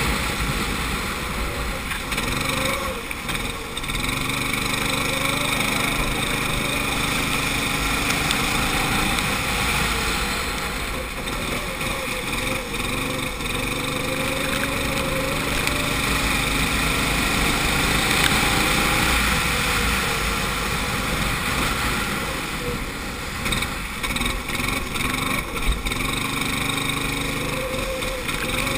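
Go-kart engine running at full throttle, its pitch climbing steadily along the straights and dropping back off for the corners, three times, over a steady hiss.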